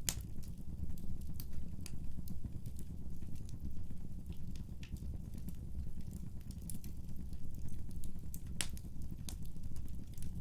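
Wood fire burning in a fireplace: a steady low rumble with scattered sharp crackles and pops from the burning wood, a loud pop at the start and another near the end.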